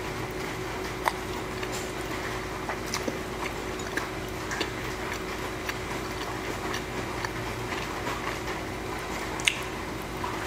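Close-miked eating of black bean noodles and gyoza, with scattered soft mouth clicks and smacks, over a steady hiss of rain. A sharper click comes about a second in and another near the end.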